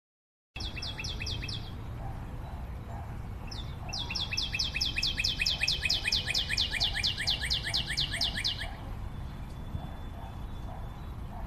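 A songbird singing a rapid trill of repeated, slightly downward-sweeping notes, about six or seven a second: a short trill about a second in and a longer one around the middle, over a steady low background noise.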